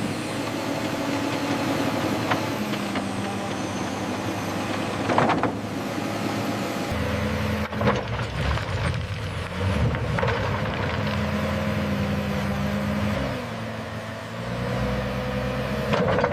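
Diesel engines of heavy earthmoving machinery running under load, with a few loud knocks, about five seconds in and near the end. The engine note changes abruptly a few times, about seven and eight seconds in.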